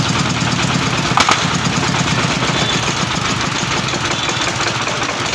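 D33 diesel engine running steadily, with a fast, even pulsing beat. A brief click about a second in.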